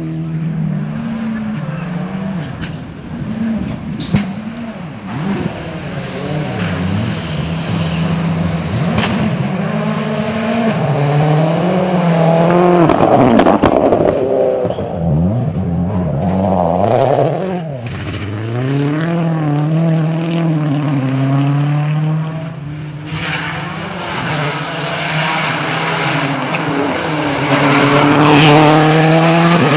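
Rally cars at speed on a special stage, engines revving up and down through gear changes as they pass, with a few sharp cracks along the way.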